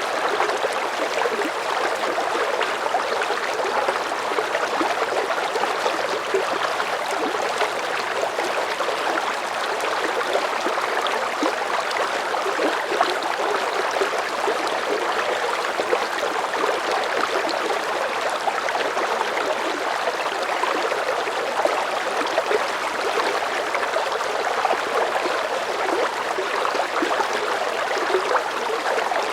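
River current of medium strength flowing steadily, a continuous rushing and bubbling of water.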